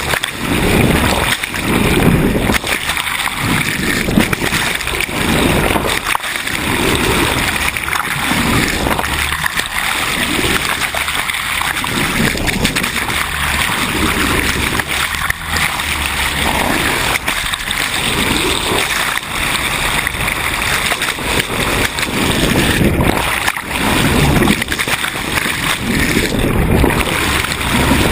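Sea water rushing and splashing along a moving sailboat's hull: a steady hiss with irregular low surges every second or two.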